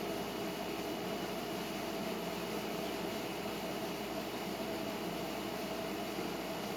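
Steady background hiss and hum with a few faint steady tones; no distinct bird calls stand out.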